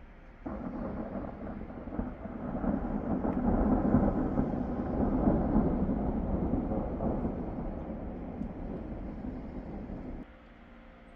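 Thunder rumbling: it sets in about half a second in, builds to a loud peak around four seconds, then rolls on and fades before cutting off suddenly near the end.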